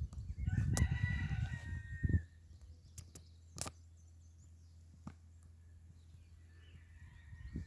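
A rooster crowing once, starting about a second in and lasting just over a second, over a low rumble. A sharp click follows a little later, and a faint drawn-out call comes near the end.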